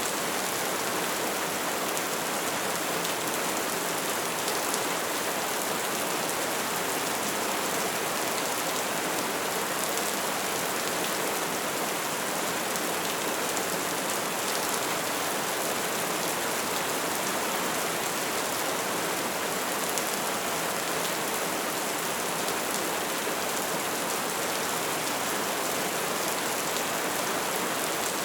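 Bonfire burning with a steady dense crackle and hiss, with small sharp pops scattered through it.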